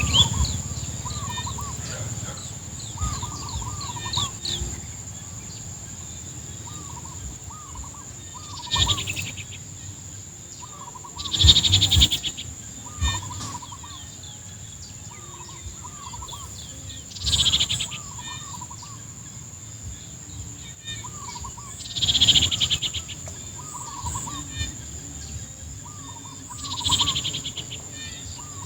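Chorus of insects and other small animals around rice fields: a steady high-pitched drone, short chirping calls repeating throughout, and a loud, rapidly pulsed trill about every four to five seconds.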